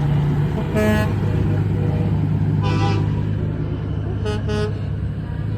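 Semi truck engines rumbling steadily, with short horn toots over them: one about a second in, a longer one near three seconds, and a quick double toot near the end.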